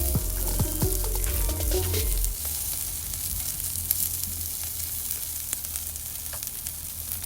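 Yakitori chicken skewers sizzling over a small fire pit, a steady hiss with scattered crackles that slowly fades. Background music plays over it for the first two seconds or so.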